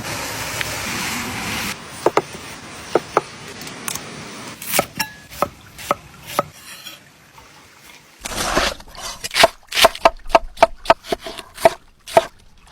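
Knife chopping food on a wooden cutting board: scattered single strokes at first, then a quick steady run of about three chops a second near the end. The first two seconds hold a steady hiss.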